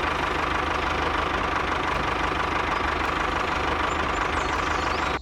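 An engine idling steadily with a knocking chug and a faint steady whine; it cuts off suddenly at the end.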